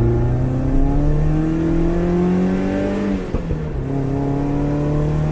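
Swapped-in BMW M44 four-cylinder engine in a Lada 2104 accelerating under load, its pitch climbing steadily for about three seconds. About three seconds in the pitch drops at a gear change, then it climbs again.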